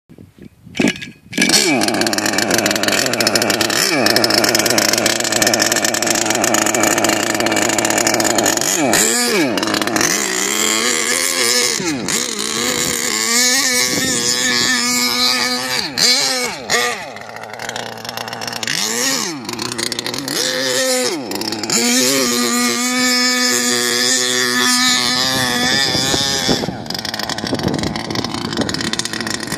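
HPI Savage XL Octane RC monster truck's two-stroke petrol engine running, starting about a second and a half in, its pitch rising and falling again and again as it is revved. The uploader says its slipper clutch is audibly slipping.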